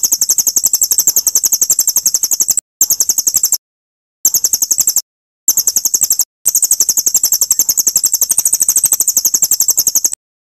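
Songbird trilling from a masteran training recording: fast, evenly repeated high-pitched chirps, about eight a second, in five bursts cut apart by short, completely silent gaps.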